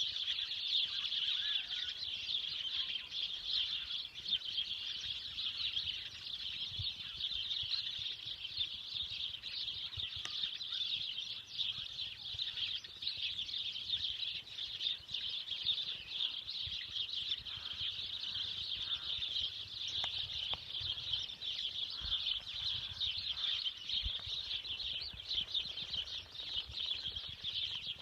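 A dense chorus of many small birds chirping and twittering continuously, the high-pitched calls overlapping without a break.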